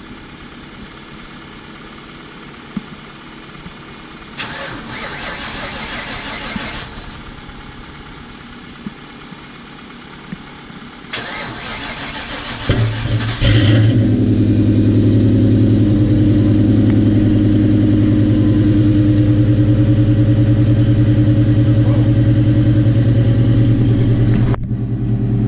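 2003 Ford Mustang GT's 4.6-litre V8 being cold-started: the starter cranks for a couple of seconds without catching, then cranks again about eleven seconds in and the engine fires and settles into a loud, steady fast idle. The exhaust has a leak at the X-pipe.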